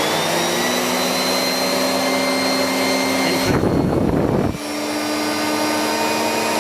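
Miele S8730 cylinder vacuum cleaner motor running steadily at full power with a high whine. About three and a half seconds in there is a second of low rumbling air noise, after which the motor note comes back slightly higher and a little quieter.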